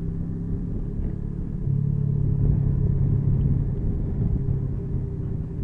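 Motorcycle engine running at a steady pitch while riding, with a low rumble underneath; it gets a little louder about two seconds in and holds there.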